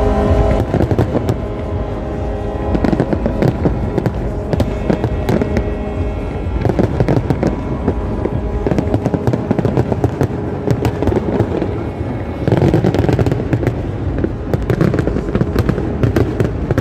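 Fireworks display going off in a dense, continuous run of crackling and popping cracks. A heavier flurry comes about twelve seconds in.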